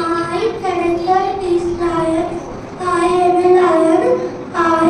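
A young child singing a simple tune into a microphone, in short phrases of held notes.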